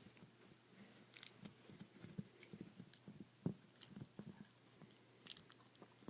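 Chihuahua gnawing and chewing on a large bone: faint, irregular crunches and clicks of teeth on bone, with one sharper crack about halfway through.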